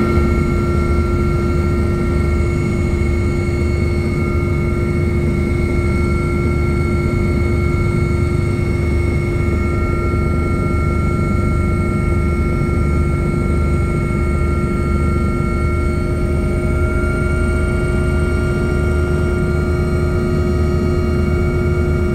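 Helicopter engine and rotor running steadily on final approach, heard from on board: a constant turbine whine of several steady tones over a loud, low pulsing rotor beat.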